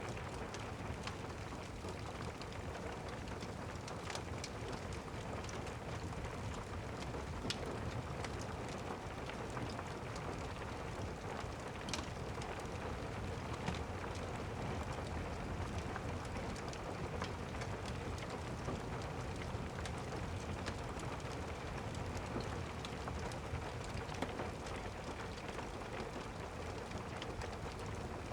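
Steady rain, with scattered sharp crackles of a wood fire in a fireplace standing out, the loudest about 12 seconds in.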